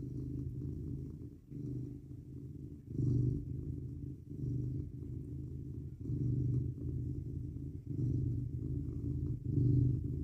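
Mackerel tabby cat purring close up, a steady low rumble that swells and eases with each breath, about every one and a half to two seconds.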